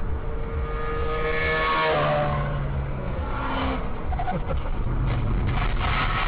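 Car engine running and revving on the road, with a steady pitched tone in about the first two seconds.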